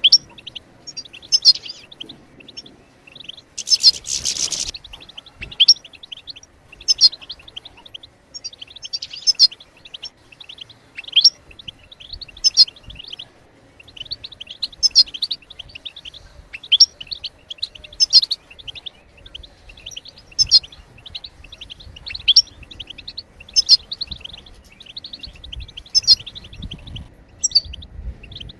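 European goldfinch twittering calls: quick high chirps in short phrases about every one and a half to two seconds, with a denser, louder burst about four seconds in.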